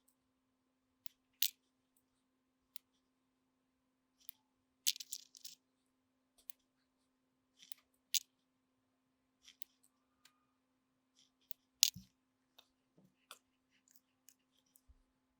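Scattered light clicks and taps of small tools and parts being handled on a workbench: a dozen or so sharp ticks, with a short cluster about five seconds in and the loudest near twelve seconds. A faint steady hum lies underneath.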